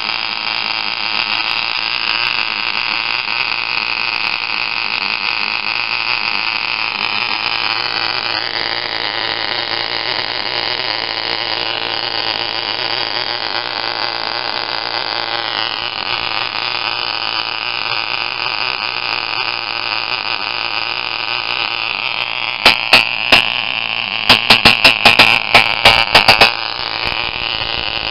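Tiny model glow engine running at full speed: a steady, high-pitched buzzing whine whose pitch drifts slightly now and then. About three quarters of the way through comes a cluster of loud, sharp crackling pops.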